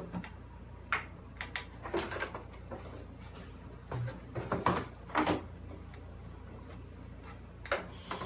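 Irregular knocks, clatters and scrapes from a zero-turn mower's side panel and its parts being handled and fitted back into place, loudest about five seconds in and again near the end.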